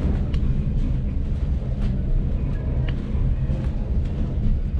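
Train running, a steady low rumble with scattered light clicks.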